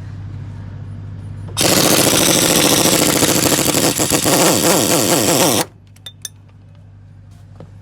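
An impact wrench hammering in a loud, rapid rattle for about four seconds, starting and stopping abruptly, over a steady low hum.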